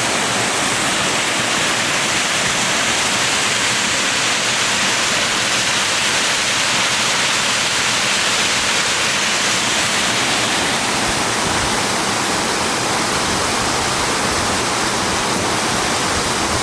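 Cascading waterfall and its tiers of rushing water, a loud, steady rush with no breaks.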